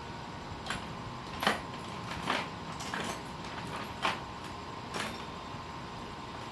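A handful of separate sharp clicks and knocks, about six, spaced irregularly roughly a second apart, the loudest about a second and a half in, over a steady hiss with a faint high steady tone.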